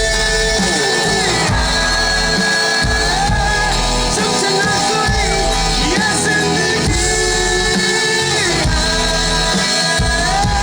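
Rock band playing live and loud: held, bending guitar lines over drums and bass, with singing.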